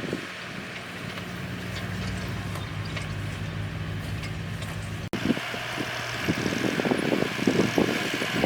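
Yanmar tractor's diesel engine running steadily. About five seconds in the sound breaks off abruptly and resumes with irregular clattering and knocking over the engine.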